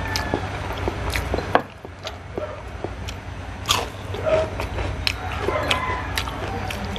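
Close-up eating of crispy fried galunggong (round scad) by hand: crunchy bites and chewing, a run of sharp clicks and crackles.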